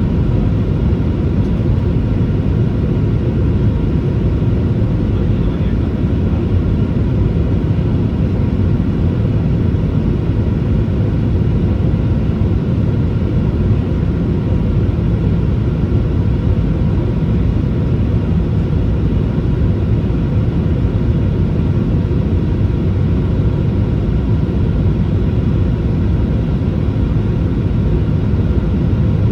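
Boeing 737-800 in flight: a steady, unbroken rumble of engine and airflow noise, with faint steady tones above it.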